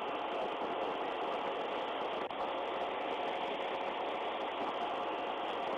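A vehicle engine idling steadily, an even mechanical hum with no change.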